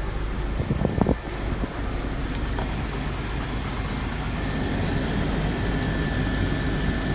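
Truck engine idling steadily, with a few sharp knocks about a second in and a faint steady high whine coming in about halfway through.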